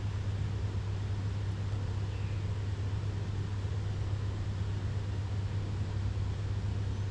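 Steady low hum over a constant even hiss, unchanging throughout.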